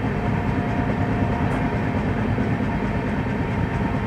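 Passenger coach of a moving train running on the track: a steady rumble of wheels on rails with some clickety-clack and wind rush, heard from the open coach doorway, the train slowing.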